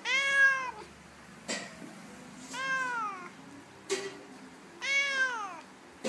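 A cat meows three times while two cats play-fight, each meow under a second long and bending up then down in pitch. Two short sharp taps fall between the meows.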